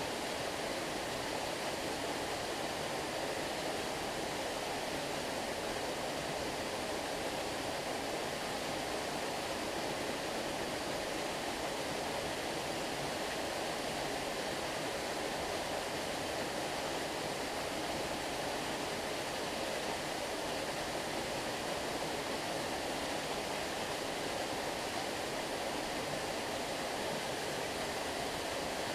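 Stream water flowing steadily, an even unbroken rush of running water.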